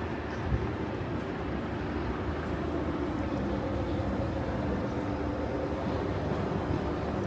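Steady low mechanical rumble of city vehicle noise, with a few held humming tones and a brief knock about half a second in.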